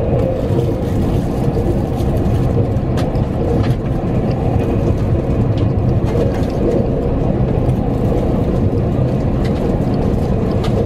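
Tobu 100 series 'Spacia' electric limited express running at speed, heard from inside the passenger cabin: a steady rumble of wheels on rails with faint scattered clicks.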